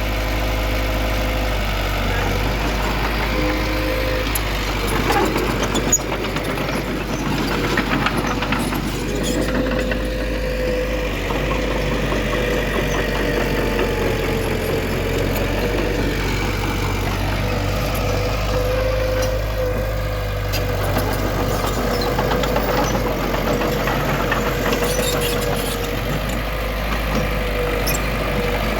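Heavy earthmoving machinery engine running steadily, with a low rumble and a steady whine. A few sharp knocks come about six to eight seconds in.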